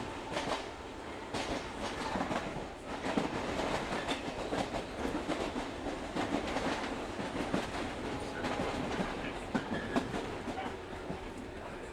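Local train running along the line, heard from inside the carriage: a steady rumble and hiss of wheels on rail with irregular clicks and clatter from the track.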